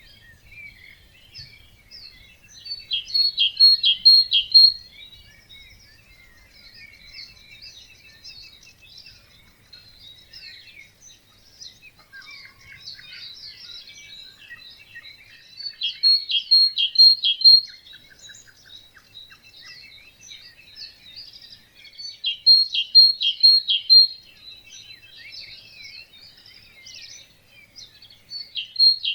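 Dawn chorus of many birds singing and calling. One nearby bird repeatedly sings a loud phrase of four or five quick notes, four times, several seconds apart.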